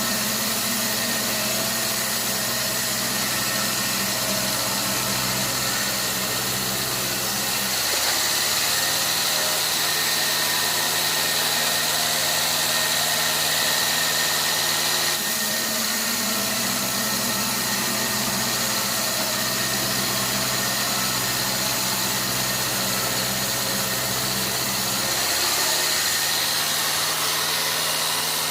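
Sawmill machinery running steadily with a noisy hum. Its low tone shifts down and back up in a slow cycle, about every seven to ten seconds, as if coming under load and easing off.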